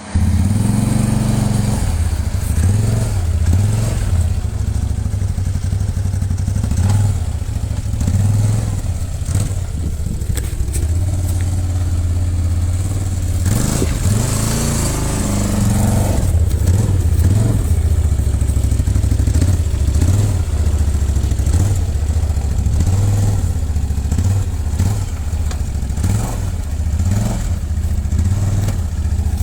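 Dirt bike engines running and revving, the pitch rising and falling with the throttle, with scattered clatter.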